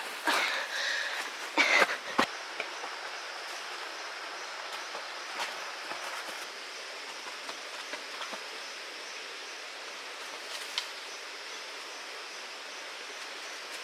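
A few knocks and rustles in the first two seconds, then a steady, even outdoor hiss with no speech.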